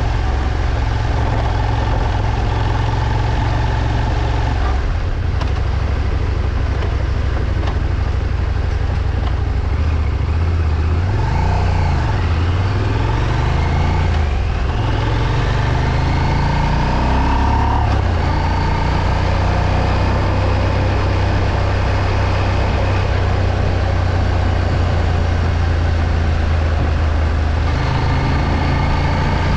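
Moto Morini X-Cape 650's parallel-twin engine running while the motorcycle is ridden on the road. The engine pitch rises and falls several times in the middle as speed changes, then holds a steady note.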